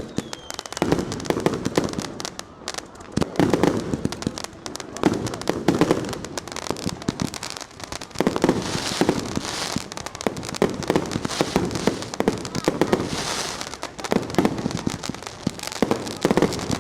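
Fireworks and firecrackers going off all around in a dense, unbroken barrage of sharp bangs and crackling that swells and eases every few seconds.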